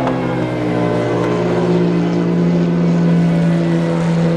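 A car engine running at steady high revs, holding an almost constant pitch and swelling slightly about halfway through.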